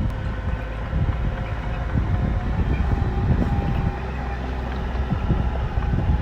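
A bulldozer's diesel engine running steadily with a low rumble and occasional knocks.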